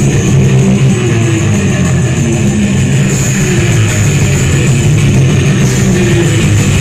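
Live rock band playing a loud instrumental passage with drums and heavy amplified strings.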